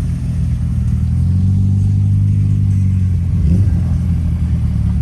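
Car engines running at low speed as cars roll slowly past in a line; one engine note grows a little louder around the middle, with a brief rise in pitch at about three and a half seconds in.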